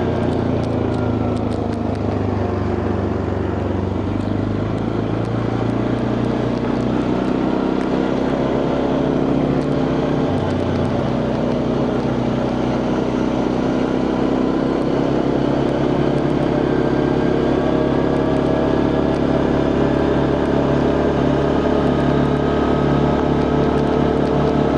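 Quad bike engine running steadily while riding along, its note shifting slightly with speed.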